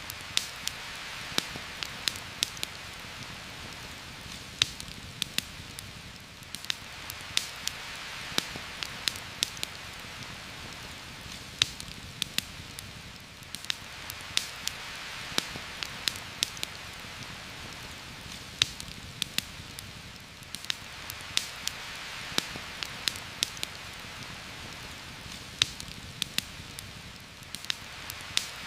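Steady heavy rain hissing through forest foliage, swelling and easing about every seven seconds, with frequent sharp pops and ticks scattered on top.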